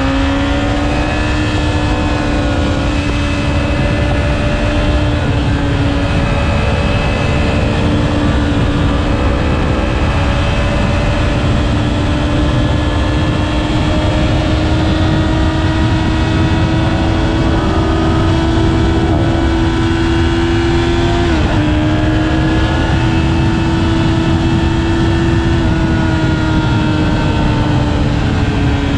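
Yamaha R6 inline-four engine running at steady high revs while riding, heard on board over heavy wind rumble. The pitch creeps up slowly, drops abruptly about 21 seconds in, then holds steady.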